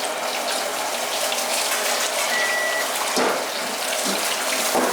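Oil sizzling steadily as food fries in a pan, with a couple of short metal knocks from a utensil in the second half.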